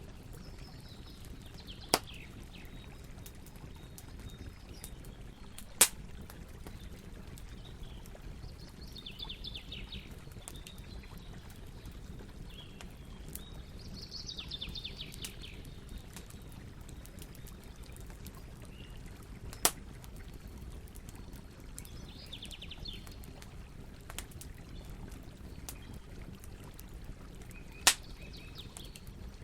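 Wood campfire burning with a steady low background and four sharp pops, the loudest near the end. A bird calls several times in short trills.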